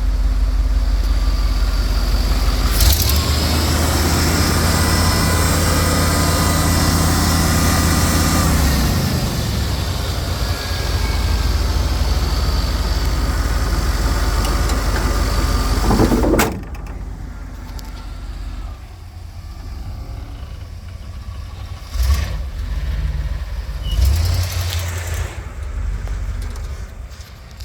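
1994 boom truck's engine running, revving up about three seconds in, holding high revs for several seconds, then dropping back. A short sharp burst of noise comes about halfway through, after which a much quieter low rumble continues with a few knocks near the end.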